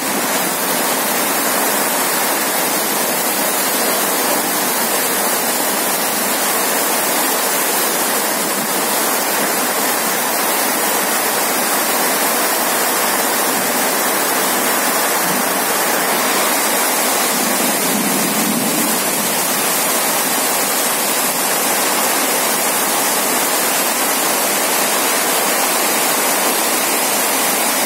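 Heavy rain falling in a steady, dense hiss, with water pouring off the edge of a corrugated metal carport roof.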